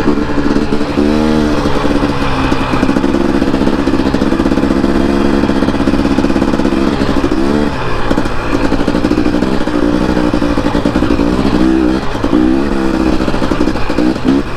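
Dirt bike engine running while riding a trail, its pitch rising and falling as the throttle is opened and closed, with steady stretches between.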